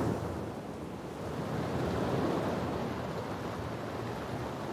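Rain recording: a steady rushing of heavy rain with a low rumble of distant thunder that swells about two seconds in and slowly fades.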